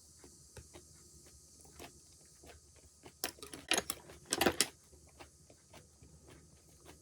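Light clicks and taps of tableware or kitchen utensils being handled, with a quick run of louder clatters from about three to four and a half seconds in.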